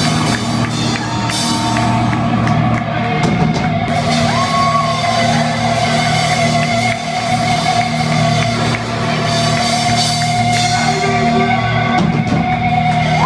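Heavy metal band playing live, loud and continuous, with a distorted electric guitar holding one long sustained note and sliding into a few bent notes over drums.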